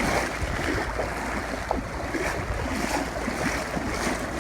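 Heavy rain and gusting wind on the microphone, with water sloshing as someone wades through deep, cold floodwater.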